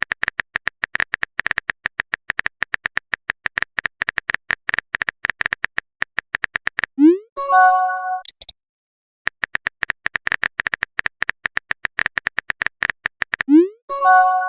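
Chat-app sound effects: a rapid run of beeping typing clicks for about seven seconds, then a short rising swoosh and a pitched message chime. The typing clicks start again and the swoosh and chime come once more near the end.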